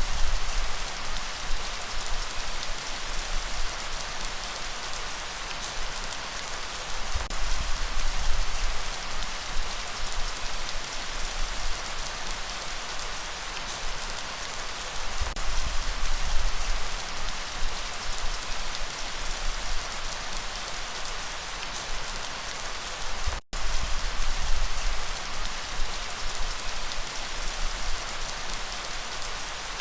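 Steady rain falling, a dense even patter of drops on surfaces. The sound cuts out for an instant about two-thirds of the way through.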